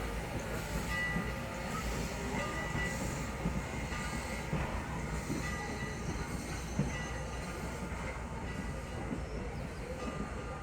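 Train running, with a steady rumble and short high-pitched tones coming and going every second or so.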